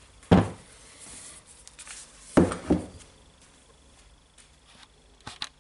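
A few sharp knocks and clunks, about four of them with quiet gaps between, from a tool being handled and set down on a hard surface; no motor is running.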